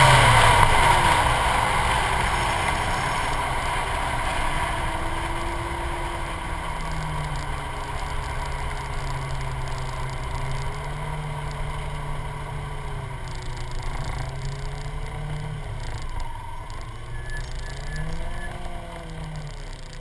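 Suzuki Swift Sport rally car's four-cylinder engine heard from its front bumper, the revs dropping sharply as it comes off the throttle. It then runs at low revs with slow rises and falls and a brief blip near the end, over road rumble, growing steadily quieter as the car slows.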